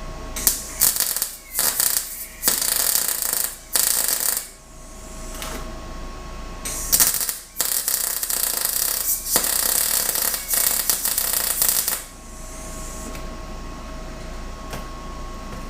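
Arc welder crackling in several short bursts, then in a longer run of about five seconds, as welds are laid on steel four-link suspension bars. The arc is fighting and popping rather than running smoothly, which points to a welding problem.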